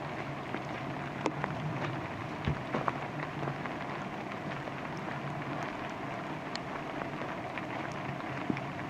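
Steady rain falling on the forest, a continuous hiss with scattered sharper drips, a few louder drop impacts in the first three seconds.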